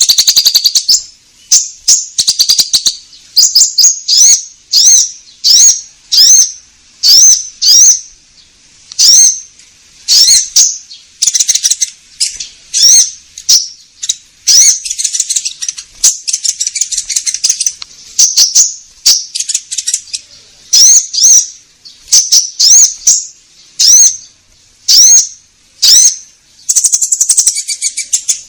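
Konin bird song played as a lure call (pancingan): loud, high-pitched chirps with quick upward-hooked notes, given in short phrases about once a second.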